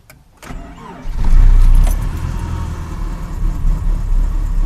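Cold start of a 1990s Subaru flat-four: ignition key clicks, a moment of cranking, then the engine catches about a second in, flares up and settles into a steady cold idle.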